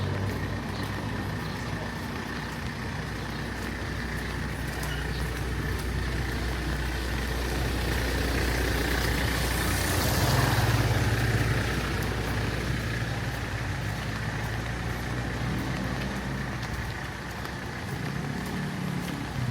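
Street traffic: a motor vehicle's engine idling or running close by with a steady low hum, and a vehicle passing with a swell of noise about ten seconds in.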